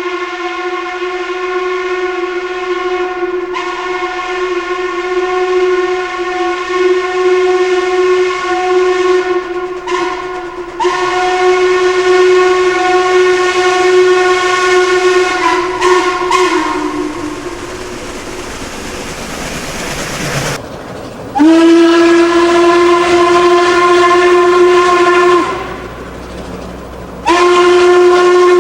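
Train whistle blowing at a single steady pitch: one long blast with brief dips, then a stretch of rushing train noise, then two shorter blasts, the last starting near the end.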